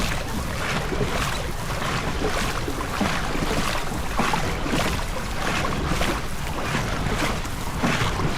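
Crew paddles stroking through the water in a steady rhythm, a little under two strokes a second, with wind noise on the microphone.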